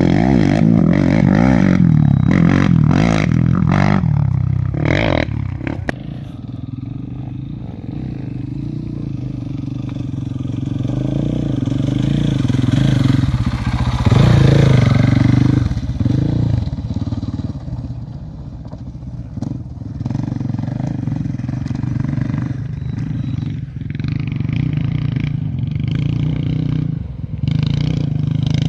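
An engine running steadily, its level falling and rising again, with a run of knocks and clatter during the first few seconds.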